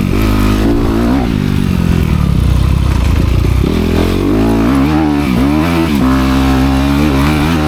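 Honda CRF250R's single-cylinder four-stroke engine revving through its dual exhaust pipes. The pitch rises and falls repeatedly with the throttle, more sharply in the second half.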